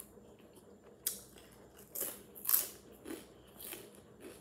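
Potato chips crunching as they are chewed: a string of sharp, crackly crunches starting about a second in, roughly one every half second, the loudest about two and a half seconds in.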